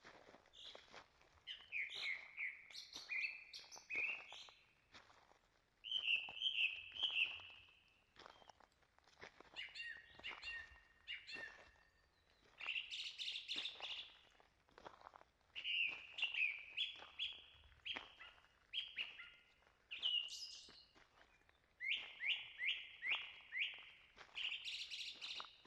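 Songbirds singing: repeated phrases of bright chirps and quick runs of downward-sweeping whistled notes, coming every couple of seconds with short gaps between.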